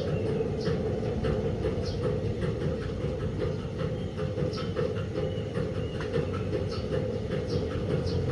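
DELTA 16 kg washing machine running: a steady mechanical rumble with irregular light clicks and knocks on top.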